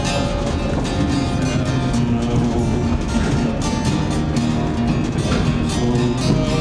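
Live music: a strummed acoustic guitar playing a slow song, with held notes over the strumming and no singing.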